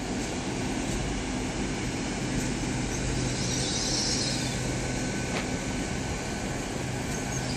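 Two coupled GWR Class 800 bi-mode trains pulling away on their underfloor diesel engines, with a steady low hum and a brief higher hiss about halfway through.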